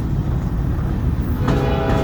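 Freight train rolling by with a steady low rumble. About a second and a half in, a locomotive air horn starts sounding a held chord.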